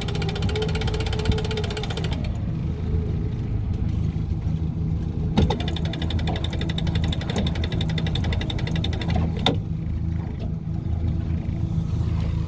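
Outboard motor running steadily, with an electric downrigger motor whining over it in two runs: one that stops about two seconds in and another from about five and a half to nine and a half seconds in, each start and stop marked by a sharp click.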